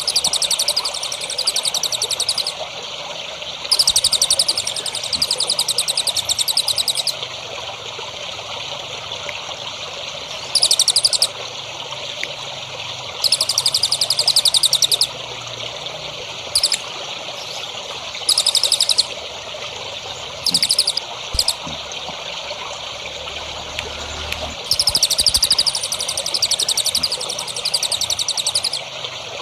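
A songbird sings fast, high, buzzy trills in repeated bursts of up to a few seconds, with short pauses between them. Steady trickling water runs underneath.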